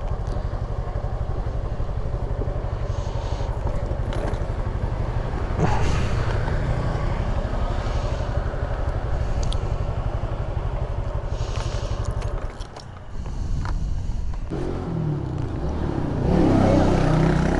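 Motorcycle engine running steadily. It drops away for about a second two-thirds of the way through, then picks up again, louder and rougher near the end.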